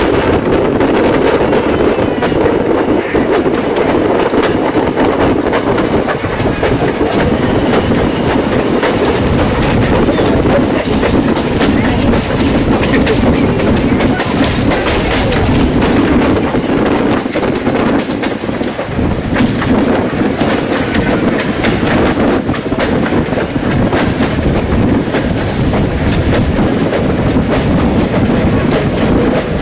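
Passenger train coach rolling along the track: a steady rumble with the clickety-clack of steel wheels over the rails, heard from an open coach window.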